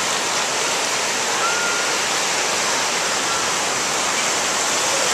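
Ocean surf washing over the shore: a steady, unbroken hiss of breaking waves and foaming water.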